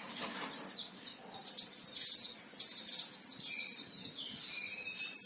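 Caged mantenan songbird singing in full voice: fast, high buzzy trills strung into long phrases, then sweeping whistled chirps toward the end.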